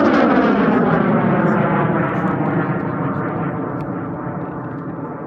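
A high-power amateur rocket motor burning as the rocket climbs away after lift-off: a loud, rough roar whose pitch slides steadily downward and slowly fades. The motor is rated at about 19.8 thousand newton-seconds with a 5.5-second burn.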